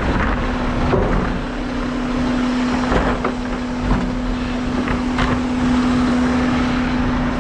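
Diesel semi-truck running, heard from inside the cab: a steady engine drone over road noise.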